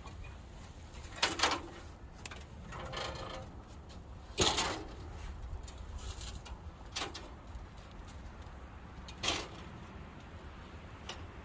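Scattered knocks and clanks, four sharp ones a couple of seconds apart, as metal parts of a blueberry harvester are handled during dismantling, over a steady low wind rumble on the microphone.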